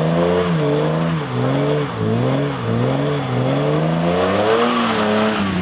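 BMW straight-six car engine accelerating hard, its pitch climbing and then dropping back several times.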